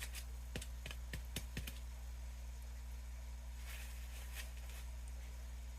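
Small pot of potting soil being shaken and handled: a quick run of about six light taps and clicks in the first second and a half, then a soft rustle a little later, over a steady low hum.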